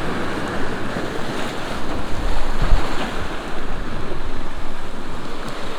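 Sea waves washing in close by, a steady loud rush of water, with wind buffeting the microphone in a low rumble a little past two seconds in.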